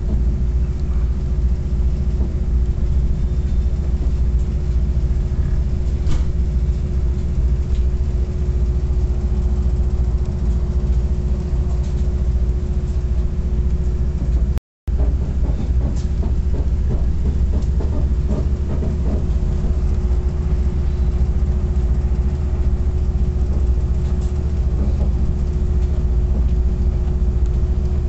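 Passenger train running along the track, heard from on board: a steady low rumble with a constant hum and a few faint clicks. The sound cuts out for a split second about halfway through.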